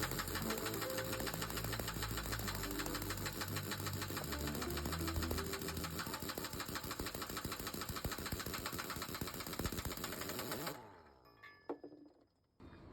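Air impact wrench hammering rapidly on a hub nut or bolts with a steady high whine, then cutting off abruptly near the end.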